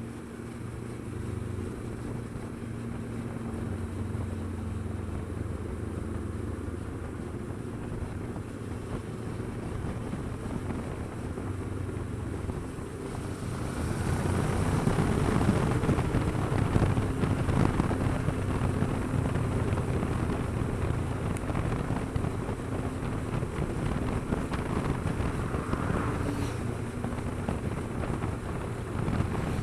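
Motorcycle engine running at a steady road speed, with wind rushing over the microphone; about halfway through, the engine and the wind rush both get louder.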